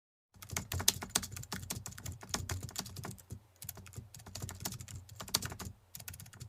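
Rapid, irregular computer-keyboard typing, a dense run of key clicks with a brief pause about halfway.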